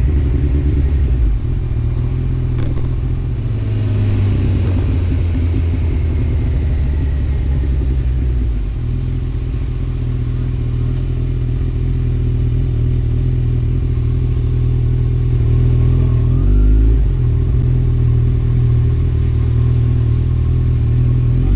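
Motorcycle engines running at a group bike meet, a steady low rumble, with a rising rev about sixteen seconds in.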